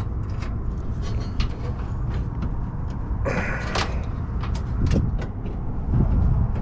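A metal part being pushed and slid into a sheet-metal HVAC cabinet: scattered clicks and knocks with a scraping rub about three seconds in, over a steady low rumble.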